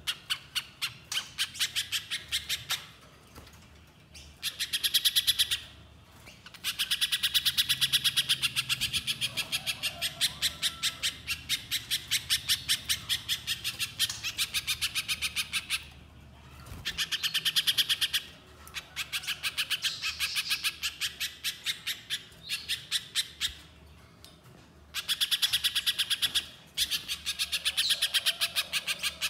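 A spiderhunter (pijantung) calls in long bouts of rapid, sharp repeated notes, about four a second, with short pauses between bouts.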